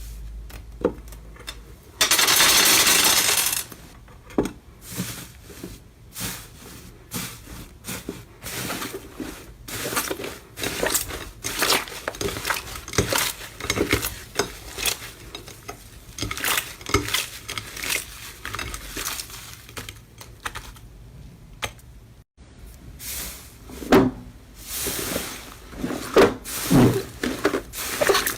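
Slime being squeezed and poked by hand, making rapid irregular sticky clicks and crackling pops. A short hissing burst comes about two seconds in.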